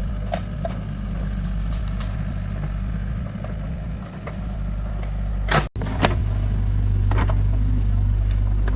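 Excavator's diesel engine running steadily, with a few light clicks and knocks over it; the sound cuts out for an instant a little past halfway, then picks up slightly louder.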